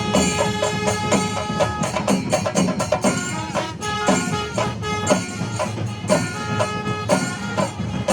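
Traditional Kerala temple festival music: drums and small cymbals playing a fast, steady rhythm while a wind instrument holds long notes over it.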